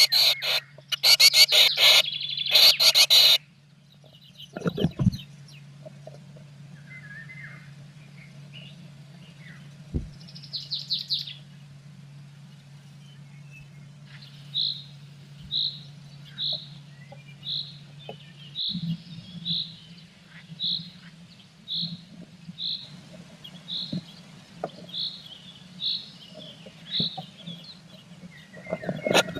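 Blue tit calls at the nest box. A loud burst of harsh chirping in the first few seconds, then, after a pause, a short high note repeated about once a second a dozen or so times, over a steady low hum.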